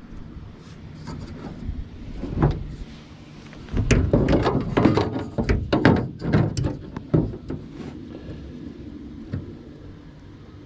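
Irregular clunks and knocks of aluminum pieces being handled and set against an aluminum boat hull, with a dense cluster between about four and seven seconds in.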